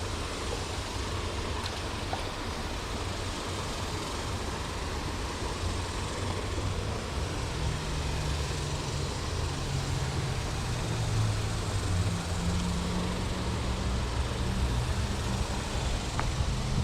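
Steady road traffic noise, with a vehicle engine's low hum coming in about halfway through and growing gradually louder.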